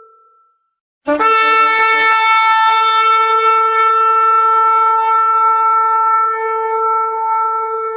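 Shofar blasts: one note fades out, and after a short silence about a second in, a new long blast starts with a brief lower note that jumps up, then holds one steady note.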